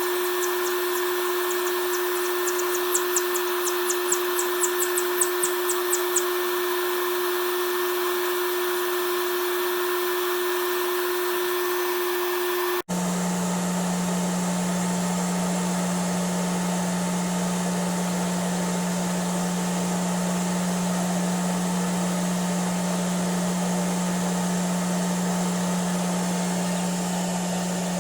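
Handheld hair dryer running steadily with a constant hum. After a sudden break about 13 seconds in it resumes with a lower-pitched hum.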